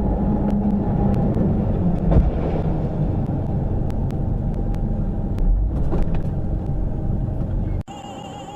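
Vehicle driving, heard from on board: a steady low rumble of engine and road noise with a hum and a few light clicks. It cuts off suddenly near the end.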